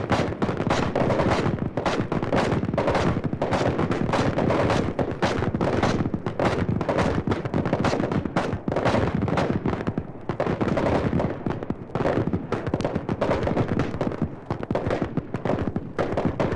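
Dense, continuous gunfire, many shots overlapping rapidly with no pause, like a battle of massed small arms.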